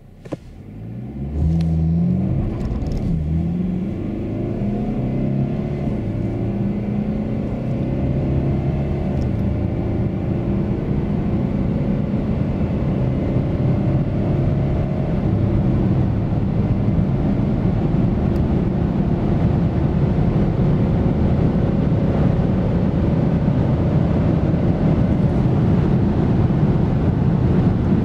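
A Mercedes-Benz E 220 d's 2.0-litre turbocharged four-cylinder diesel pulling at full throttle from a standstill, heard from inside the cabin. The revs climb and drop at each upshift of the 9-speed automatic, quick shifts in the first few seconds and longer pulls later, while tyre and wind noise build with speed.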